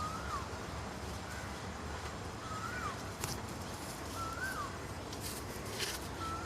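A bird calling: a short whistled note that rises and then drops sharply, four times about two seconds apart, with a couple of faint clicks in between.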